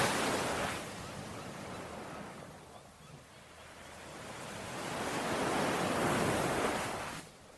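Ocean waves breaking and washing on a shore in slow surges: one wave breaks at the start and ebbs away, and another swells up through the middle, peaks, then drops away abruptly near the end.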